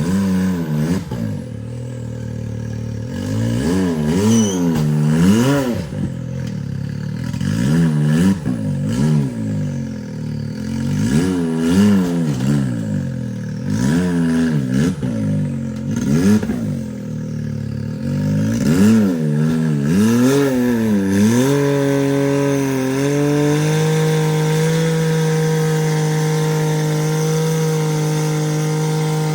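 Side-by-side UTV engine blipped up and down over and over, every second or two, while rock crawling. About twenty seconds in it settles and holds a steady speed for the rest of the time.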